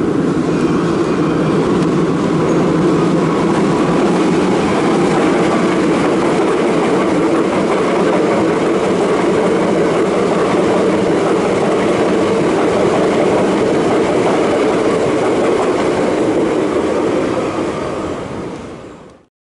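Hankyu Kyoto Line electric train running through an underground station: a loud, steady rumble of wheels on rail that fades near the end and then cuts off suddenly.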